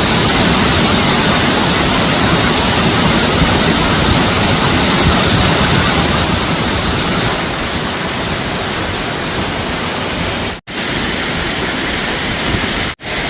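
Waterfall rushing as a steady, loud wash of water noise. It drops a little in level about halfway through, and cuts out twice for an instant near the end.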